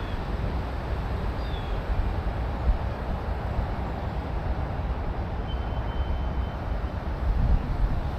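Steady low outdoor rumble with a hiss above it, with a short chirp about two seconds in and a thin high whistle past the middle.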